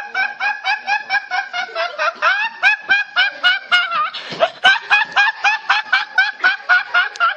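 A person laughing in one long unbroken fit, a rapid run of short 'ha' pulses at about four to five a second that stops abruptly.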